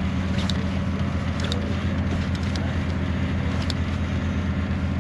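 Fishing boat's engine machinery running at a steady idle, a low, even hum, with a few faint short clicks over it.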